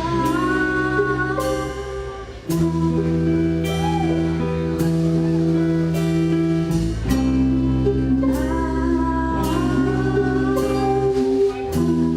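A band playing live: sustained electric guitar chords over drum hits that keep a steady beat, with a brief drop in the music about two seconds in.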